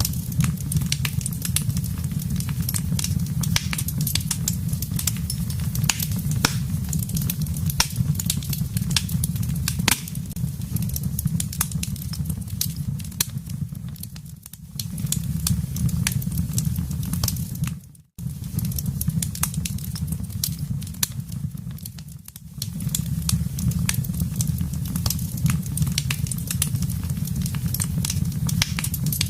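Wood fire burning in a fireplace: frequent sharp crackles and pops over a steady low rumble of flames. The sound dips briefly a few times midway, once almost cutting out.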